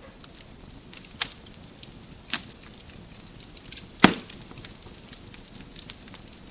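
Wood fire crackling: a steady scatter of small snaps, with louder pops a little over a second and about two seconds in, and one sharp, loud pop about four seconds in.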